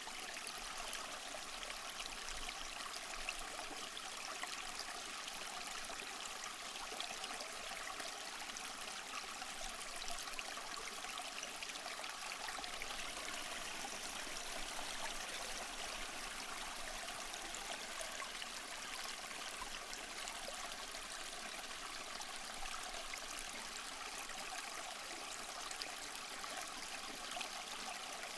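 Small waterfall splashing and trickling steadily over mossy rocks, an even rushing of water with fine splashes.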